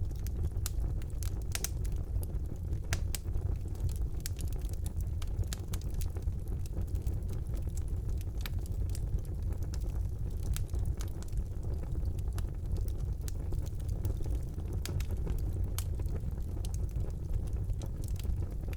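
Wood fire burning in a fireplace: a steady low rumble of flames with frequent, irregular sharp crackles and pops of burning logs.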